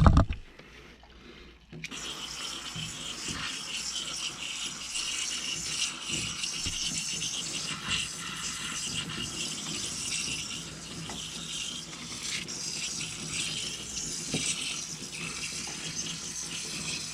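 A thump, then about two seconds in, a steady hiss of water spraying onto an air-conditioner coil to rinse it.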